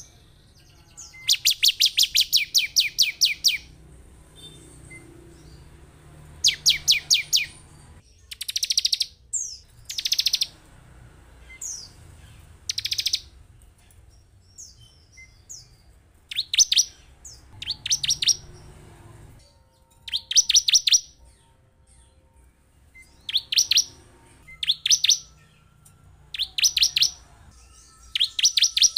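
Bar-winged prinia (ciblek) calling: short bursts of rapid, high, evenly repeated notes, each burst about one to two seconds long, coming again every couple of seconds. The calls serve as a lure to set caged ciblek singing.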